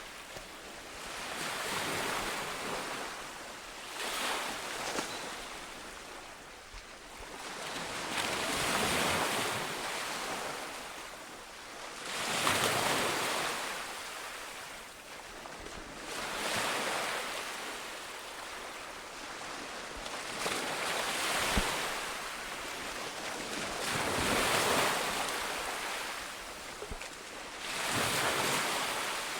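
Sea waves breaking and washing up the shore, the surf swelling and fading every few seconds in a steady rhythm.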